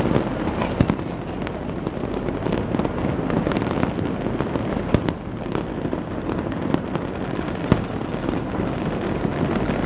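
Many fireworks and firecrackers going off at once in a continuous crackling din, with a few sharper bangs standing out: about a second in, around five seconds in and near eight seconds in.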